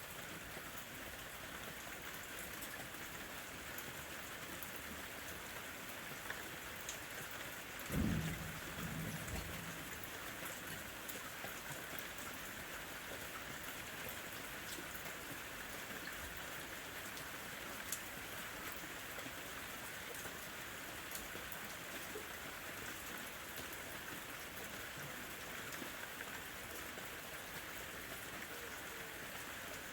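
Steady summer rain falling, an even hiss of drops. A brief low rumble comes about eight seconds in.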